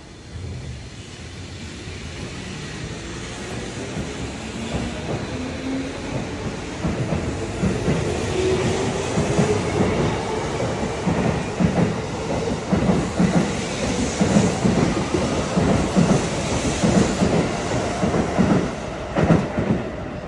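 Tokyo Metro Tozai Line electric train pulling out of the station. Its traction motors give a rising whine over the first several seconds, then the wheels clack over rail joints, louder and quicker as the cars pass.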